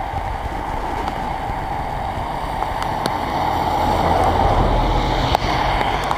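Steady rush of heavy rain, with wind buffeting the microphone as a low rumble.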